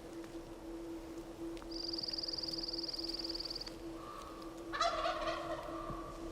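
A wild turkey tom gobbles once, a loud rattling call about three quarters of the way through. It follows a high, even trill that lasts about two seconds.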